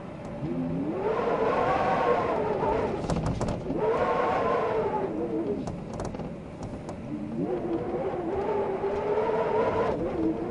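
Wind blowing in gusts, with a whistling tone that rises and falls as each gust swells and eases; three gusts. A few faint clicks come about three seconds in.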